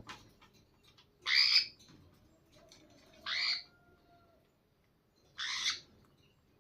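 Slaty-headed parakeet giving three harsh squawks, each about half a second long and roughly two seconds apart.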